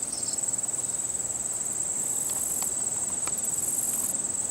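Insects trilling steadily in a high, rapidly pulsing tone, over a steady low background noise.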